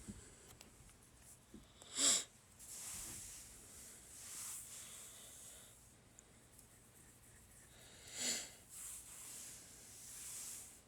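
A man breathing through his nose close to the microphone, with soft breaths swelling and fading and two short, sharp sniffs about two and eight seconds in.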